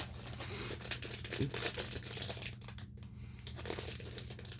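Packaging crinkling and rustling in irregular bursts as a fidget toy is unwrapped, over a faint steady hum.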